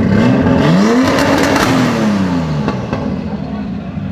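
Sports car engine revved twice, its pitch rising then falling back each time, with a couple of sharp pops as it drops back to a steady idle.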